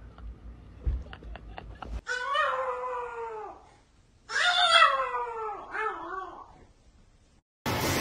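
A cat yowling twice, two long drawn-out calls that fall in pitch, the second louder, after a couple of seconds of light tapping.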